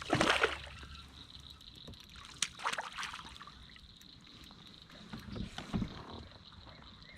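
Water splashing beside a fishing kayak, loudest right at the start, followed by a few short sharp handling noises and a couple of low knocks on the hull.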